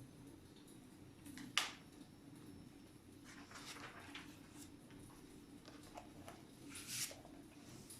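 Fireplace fire crackling softly: one sharp pop about a second and a half in and a few softer crackles and rustles later, over a low steady hum.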